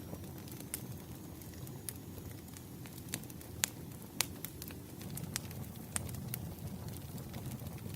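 Wood fire burning, with irregular sharp crackles and pops over a steady low rumble. A faint, thin high whistle sounds in the first few seconds.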